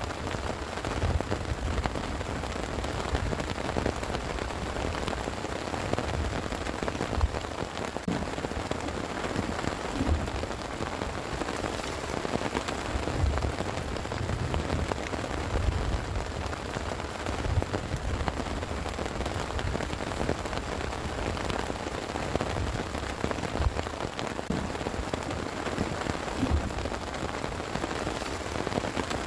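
Heavy rain falling steadily, with countless drops pattering on a surface, over a low rumble that swells and fades.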